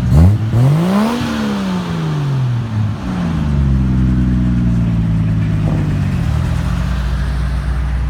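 A car engine revved once hard, its pitch climbing for about a second and falling back, then a second, gentler rise and fall before it settles to a steady idle.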